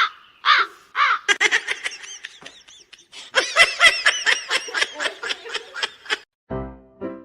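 A rapid, chattering string of short, high calls that rise and fall, from an animal, for about six seconds. Music starts near the end.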